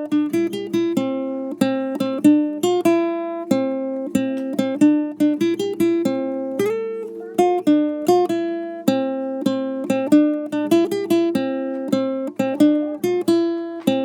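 Acoustic guitar music: a lively picked or strummed melody with steady, closely spaced plucked notes.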